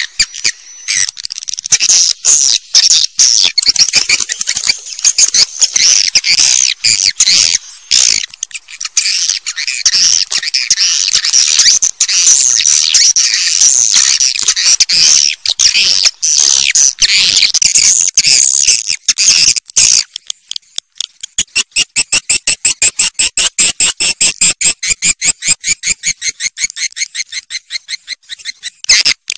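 Swiftlet calls: dense, high-pitched twittering chirps. About two-thirds of the way through they give way to a fast, even series of sharp chirping pulses, several a second.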